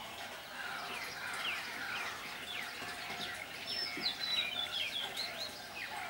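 Small birds chirping, with many short overlapping calls that drop in pitch. The calls are busiest about four to five seconds in.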